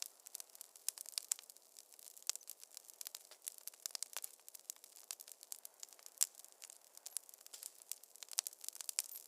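Fireplace fire crackling: a dense, irregular run of sharp pops and snaps over a soft hiss, with no low rumble.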